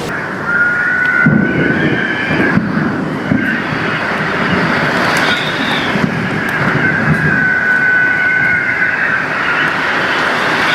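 Strong storm wind rushing steadily, with a high whistle that wavers and slides up and down in pitch.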